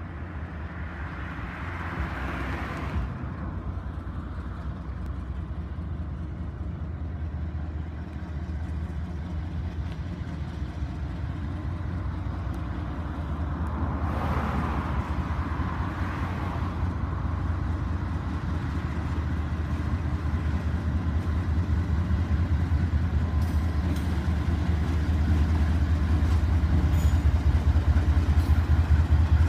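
Norfolk Southern freight train rolling slowly past: a steady low rumble of cars on the rails, with two brief rushing swells, about two seconds in and around fourteen seconds in. The deep drone of the diesel locomotives grows steadily louder toward the end as the engines draw near.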